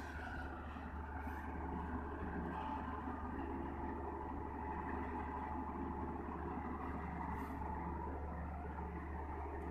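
Heavy diesel engine of earthmoving machinery running steadily, a low, even drone.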